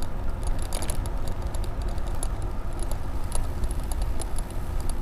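E-bike riding along with its Bafang BBSHD mid-drive motor running almost silently: a steady low rumble with light, scattered ticking and rattling from the bike. There is no audible motor hum or chain noise.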